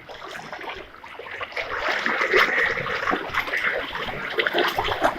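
Floodwater splashing and sloshing irregularly, louder from about a second in.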